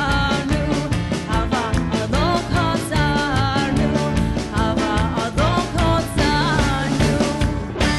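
Live band playing a fast hora dance tune: drums keep a steady driving beat under a lead melody that bends and slides in pitch.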